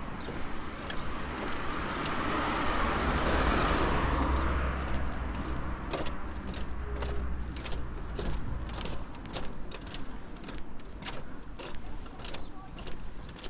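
A car passes close by, its engine and tyre noise swelling to a peak and then fading away over several seconds. Afterwards, footsteps tap on the paving at a steady walking pace.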